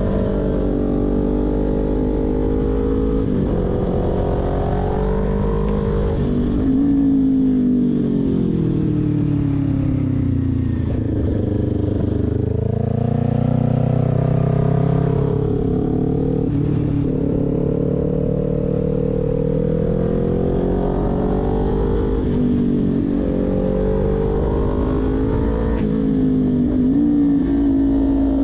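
Kawasaki Ninja 400's parallel-twin engine under way, its pitch rising and falling again and again as the throttle is rolled on and off through a run of bends. The revs sink to their lowest about eleven seconds in, then climb again.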